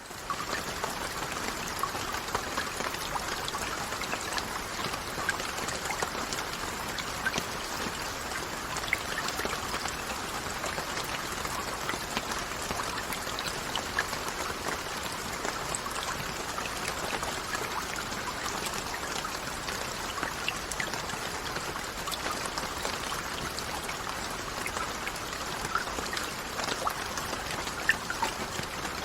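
Steady rain falling, a dense even hiss with many small drop ticks, fading in at the start.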